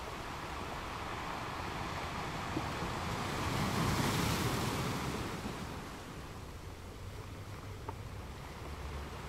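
Wind on the microphone over choppy open water, with waves washing. A gust swells about four seconds in, then fades.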